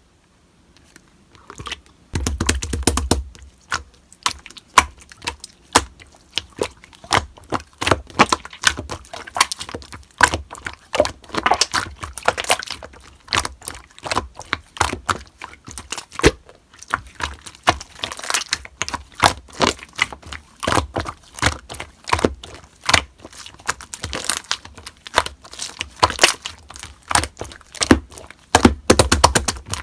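Slime being squished and poked by hand, making dense, irregular sticky pops and crackling clicks that start after a second or two of near silence.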